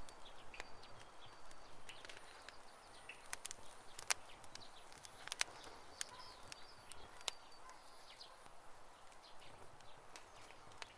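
Campfire crackling: irregular sharp pops and snaps of burning wood, with a few louder pops in the middle, over a soft hiss.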